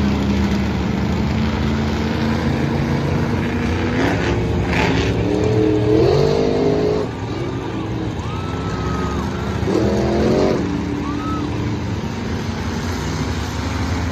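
Monster truck engine running with a steady low rumble, revving up twice, about five seconds in and again about ten seconds in.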